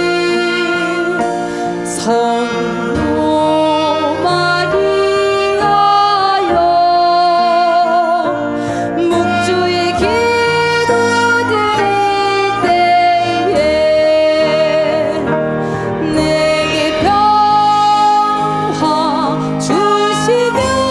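A Korean traditional gugak ensemble with piano performing a slow Catholic hymn, a woman singing the melody with a wavering vibrato.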